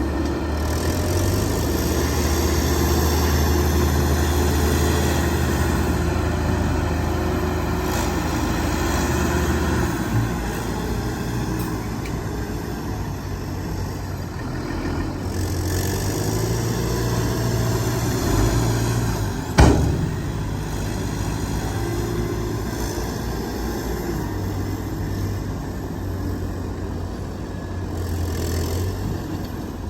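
Heavy diesel machinery at work: excavator and dump truck engines running, the engine note shifting up and down several times. One sharp bang about two-thirds of the way through.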